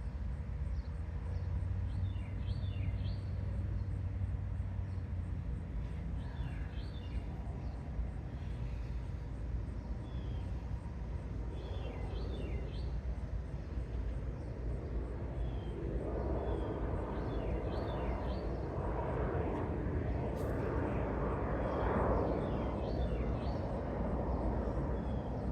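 Steady low outdoor rumble with a bird repeating a short song phrase about every five seconds. From about two-thirds of the way in there is the rustling and scraping of hands digging through potting soil in a fabric grow bag, feeling for potatoes.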